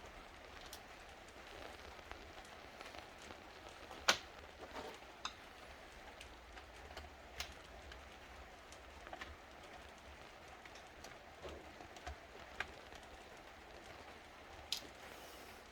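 Scattered light clicks and taps from handling small laptop parts and tools, a few at a time, the sharpest about four seconds in, over a faint steady hum.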